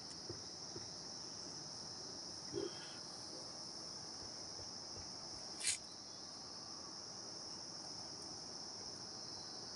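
Steady high-pitched chorus of insects stridulating, such as crickets, with one short sharp click a little past the middle.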